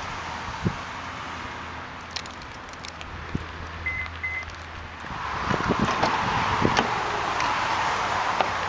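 Keys clicking and jangling, two short electronic chime beeps about four seconds in, then the 1995 Lexus LS400's 4.0-litre V8 starting about five seconds in and settling into a steady idle.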